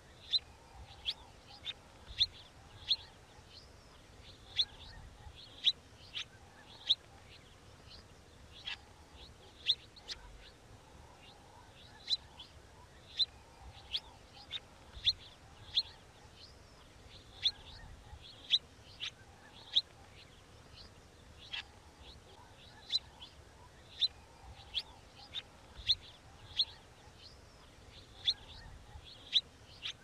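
Small songbird chirping: short, sharp, high chirps that come unevenly about once a second.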